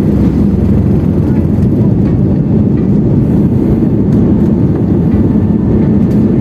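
Airliner engine and airflow noise heard from inside the passenger cabin: a loud, steady rumble.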